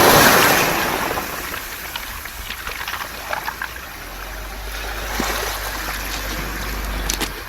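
Waves on a round-pebble (mongdol) beach: a wave washes in loudly at the start, then drains back through the stones with scattered clicking of rolling pebbles. A low wind rumble on the microphone comes in from about halfway.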